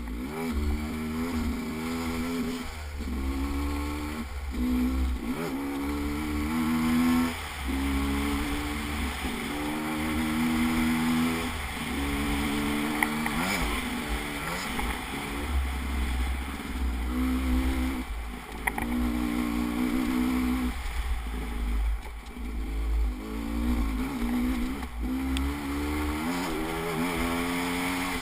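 Vehicle engine running under changing throttle, its note rising and falling every second or two over a steady low rumble.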